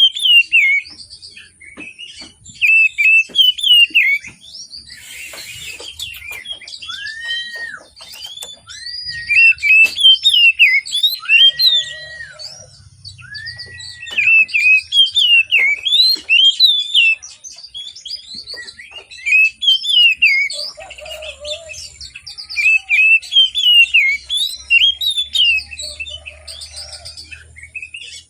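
Oriental magpie-robin (kacer) singing loudly in bursts of rapid twittering, whistled phrases with short pauses between them. Four slow, arched whistled notes come about a third of the way in.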